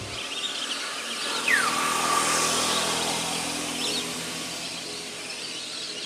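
Birds calling outdoors by a lake: a clear whistle sliding down in pitch about a second and a half in, then a few faint chirps, over a steady hiss of open-air ambience.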